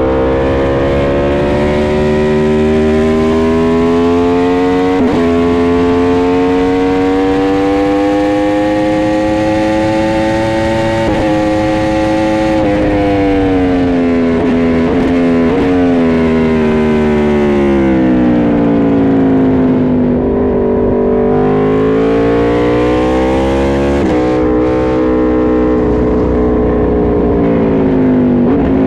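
Aprilia RSV4 RF V4 sportbike engine at full track pace. Its pitch climbs steadily through the gears for about eleven seconds, with brief breaks at the upshifts, then drops away as the bike slows. It climbs once more and falls again near the end, with steady wind and road noise underneath.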